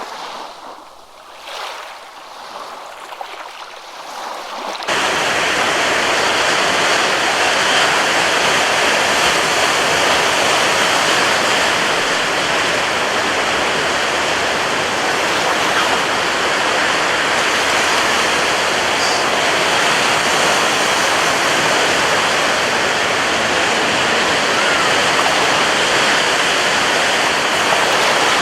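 Ocean surf: a softer, swelling wash of waves for the first few seconds, then a sudden cut about five seconds in to a loud, steady, unbroken rush of breaking surf.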